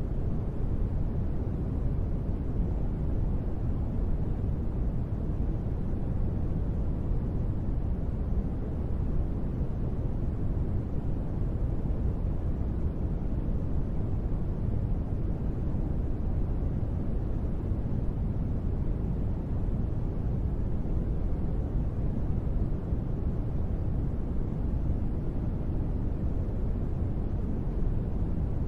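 Continuous sleep noise, deep and steady, with most of its energy low down and only a little high hiss; it does not change.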